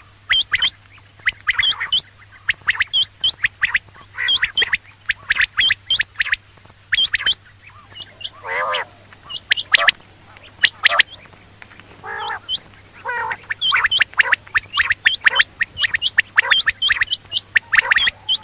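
Quails calling: quick clusters of short, high, downward-sweeping notes repeated over and over, with a few lower, harsher chattering calls among them, over a faint steady low hum.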